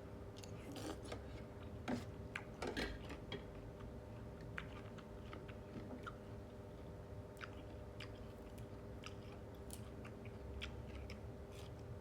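A person chewing food, with irregular small wet clicks and snaps, busiest about two to three seconds in. A steady low hum runs underneath.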